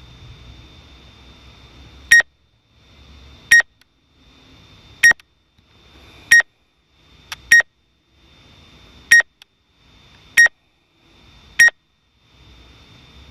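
Drone remote controller sounding a warning: eight short, loud, single beeps, one every second and a half or so, starting about two seconds in, over a faint steady hiss.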